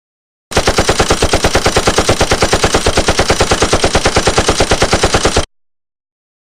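Machine-gun fire: one sustained burst of about ten shots a second for about five seconds, starting and stopping abruptly.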